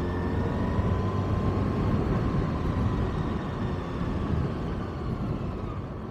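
Kawasaki ZX-6R inline-four engine running on the move, heard with rumbling wind and road noise. The engine note rises gently at the start, then eases off and grows quieter toward the end.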